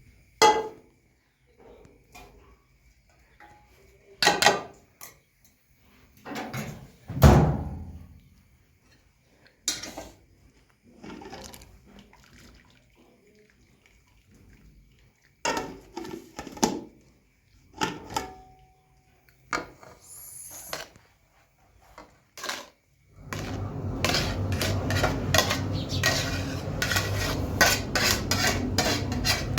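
Metal pots and utensils clinking and knocking at scattered moments, then, near the end, a fast continuous clatter of metal scraping and knocking.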